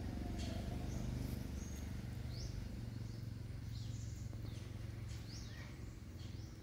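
Birds chirping in the background: short, high notes that slide down in pitch, roughly two a second and irregular, over a steady low background rumble.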